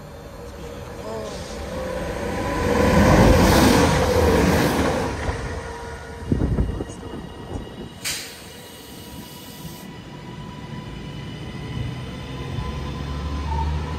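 A train passing on the main line: its noise builds over a couple of seconds, peaks about three to four seconds in and dies away. A few knocks and a sharp click follow, then a low rumble builds again near the end.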